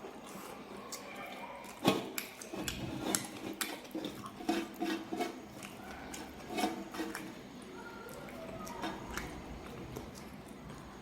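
Close-up eating sounds: wet chewing and lip smacks with sharp clicks. The loudest click comes about two seconds in, and the sounds thin out after about seven seconds.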